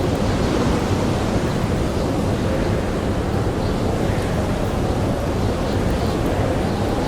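Blizzard wind blowing steadily as a dense rush of noise, with a faint wavering howl rising and falling in pitch. A few faint crackles from a campfire sit under it.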